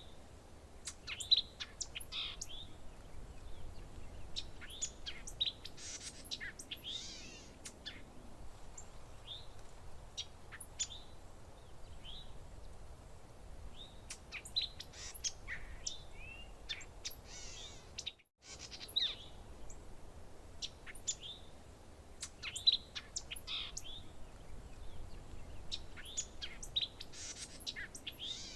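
Songbirds chirping and calling, many short high notes and brief trills from several birds, with a split-second cut-out about two-thirds of the way through.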